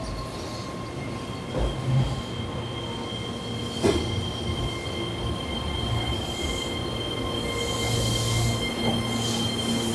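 Keihan electric train moving slowly through the station, its wheels squealing in steady high tones over a low running rumble. A sharp click comes about four seconds in.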